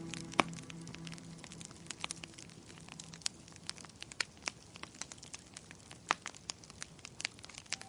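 Wood fire crackling in a fireplace: irregular sharp pops and snaps, a few a second, the loudest about half a second in.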